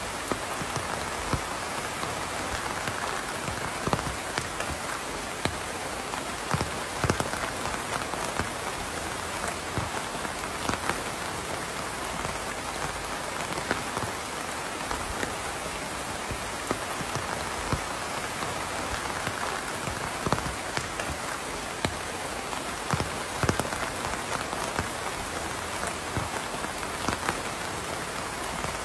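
Steady rain falling, an even hiss with frequent separate drops tapping on a hard surface.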